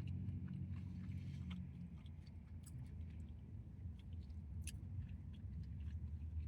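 A person chewing a fried chicken sandwich, with scattered small clicks, over a low steady hum.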